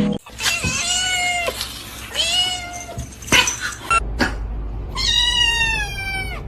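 Cat meowing: three drawn-out meows, the last one the longest.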